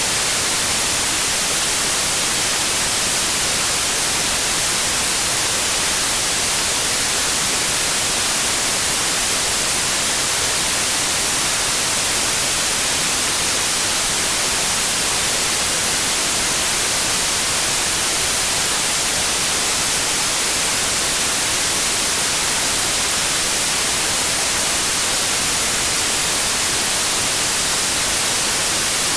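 Steady generated white noise: an even, unchanging hiss across the whole range, strongest in the treble.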